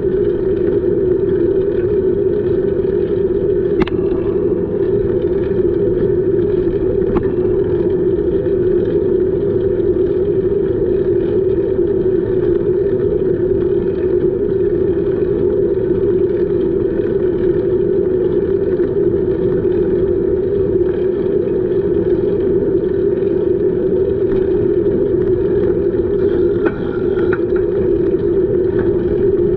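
Steady rushing wind and riding noise on the microphone of a camera on a moving bicycle, with a constant hum, and faint clicks about four and seven seconds in.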